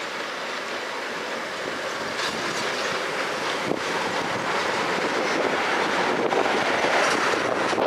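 Metra commuter train of bilevel gallery cars rolling past: a steady rumble of wheels on rail with a few sharp clacks, growing louder as the cars go by.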